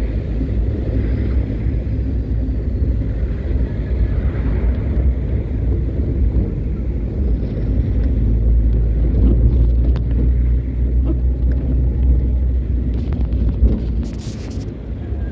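Vehicle driving along a road: a steady low rumble of engine and tyres, with a brief hiss about a second before the end.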